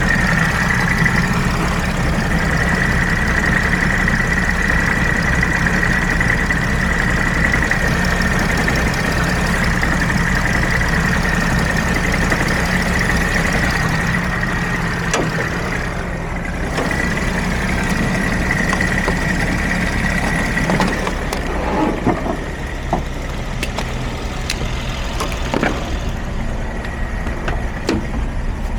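Mercedes-Benz Sprinter's 3.0 L OM642 V6 diesel idling, with a steady high whine over it for most of the time. The whine stops about three quarters of the way through, and a few sharp clicks and knocks follow.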